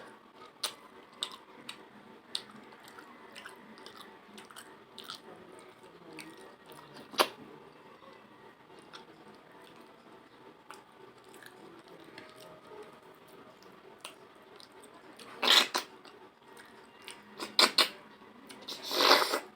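Close-up eating sounds of a person chewing a rice meal with fish-head curry: scattered small wet clicks and smacks. A sharp click comes about seven seconds in, and a few louder bursts of chewing or sucking come in the last few seconds.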